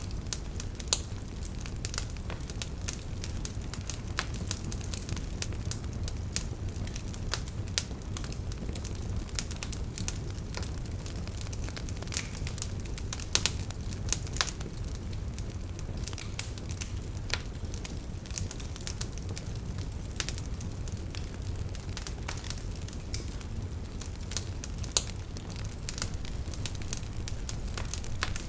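Wood campfire burning with a steady low rumble of flames and frequent sharp, irregular crackles and pops from the firewood, a few louder snaps among them.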